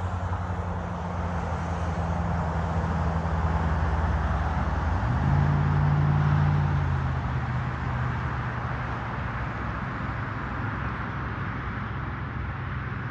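A motor vehicle passing on the road, its low engine hum and tyre noise building to a peak around the middle and then fading away. The engine note shifts in pitch about five seconds in.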